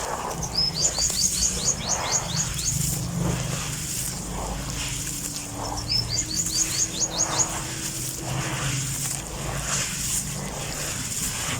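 A songbird singing a quick phrase of about eight short rising high notes, twice, about five seconds apart, over a steady low hum and faint scattered soft crackles.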